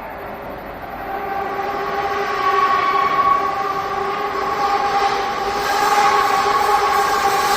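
Madrid Metro train running with a steady whine of several tones over a rumble. It grows louder from about a second in.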